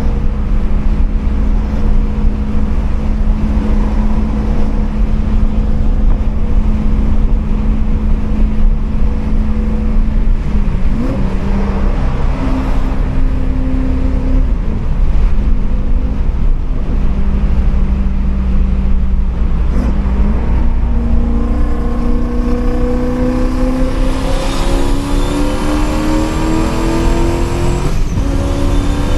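Turbocharged Coyote 5.0 V8 of a 2015 Mustang running at a steady cruise, its pitch dipping and recovering twice. Then it climbs steadily in pitch under acceleration until near the end, with a higher whine joining in as it climbs.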